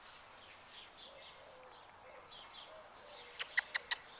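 Faint birds chirping outdoors, then a quick run of four short, sharp clicks near the end.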